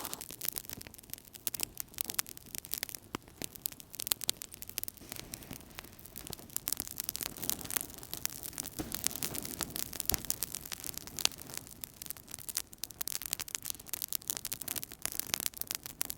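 Wood fire in a fireplace crackling: many quick sharp pops and snaps over a soft low rush of burning.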